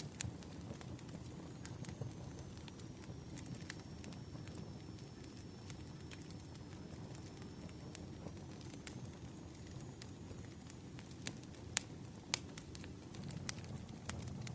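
Firewood burning: irregular sharp crackles and pops over a steady low rumble, with two louder pops about 12 seconds in.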